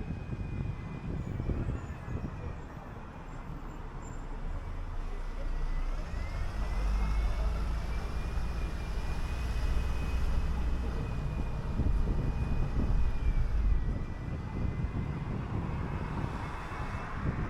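City bus under way: low engine and road rumble that swells about six seconds in as it pulls harder, with a thin high whine from the drivetrain that climbs with it and drops back about two-thirds of the way through.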